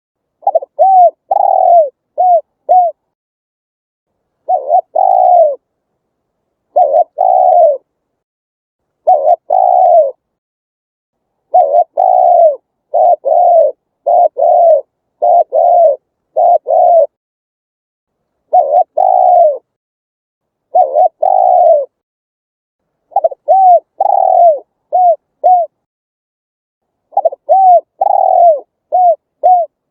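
Spotted dove cooing: repeated phrases of several short, arching coos, each phrase about a second long, with pauses of one to two seconds between them and no background sound in the gaps.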